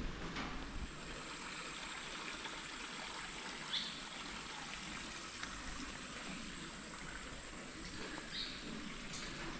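Rainforest ambience: a steady, high insect drone that comes in about a second in and holds, over a soft hiss, with two short bird chirps, one about four seconds in and one near the end.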